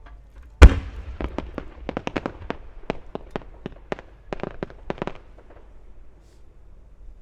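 Aerial fireworks bursting: one very loud boom about half a second in, then a quick run of some twenty sharp reports over the next four seconds that thins out and stops.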